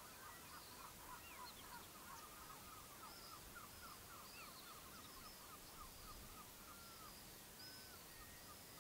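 Faint bird calls: a rapid run of many short calls, with a few higher chirps above them, thinning out about seven seconds in.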